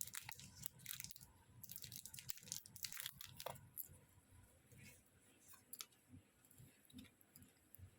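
Packaging crinkling and rustling as it is handled and opened, busiest in the first half, then thinning to a few scattered clicks and taps.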